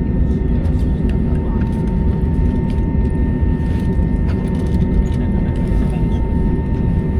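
Airliner cabin noise: a steady low rumble with a thin, even whine held over it, and a few faint ticks.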